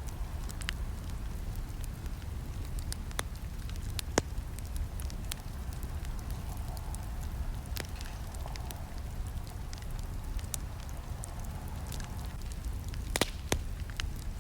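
Campfire burning: a steady low rumble of flames with scattered sharp crackles and snaps. The loudest pops come about four seconds in and a couple near the end.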